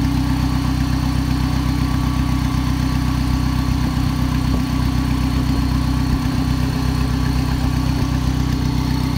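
Turbocharged Honda Civic four-cylinder engine idling steadily, heard close up with the hood open.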